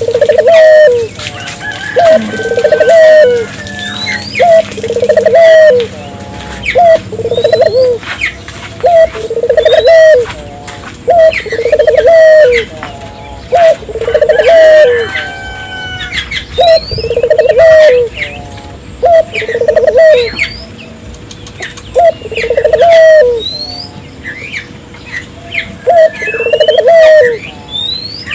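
Puter doves (domesticated collared doves) cooing over and over, a short rolling coo about every one and a half to two seconds. Small birds chirp in quick rising notes over the coos.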